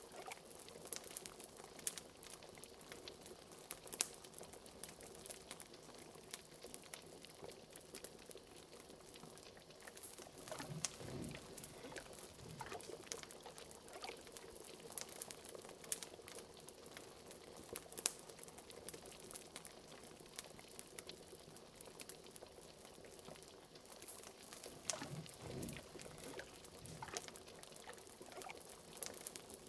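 Liquid bubbling at a steady boil, with a deeper gurgle now and then, under frequent sharp crackles of a wood fire.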